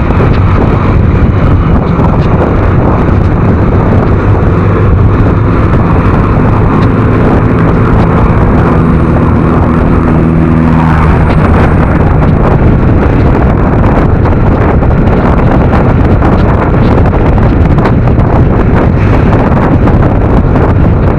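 Loud wind rushing over the microphone of a rider on a moving scooter, with the engine and road noise underneath. An engine hum stands out more clearly for a few seconds in the middle, then sinks back into the wind.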